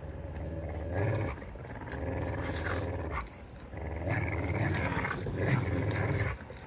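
Dogs play-growling during a tug-of-war over a tether tug toy: long, low growls with a short break a little past three seconds in and another near the end.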